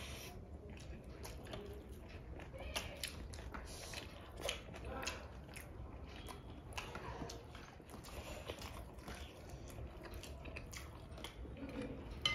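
People chewing and biting food close to the microphone: irregular crunches and wet mouth clicks, with no break.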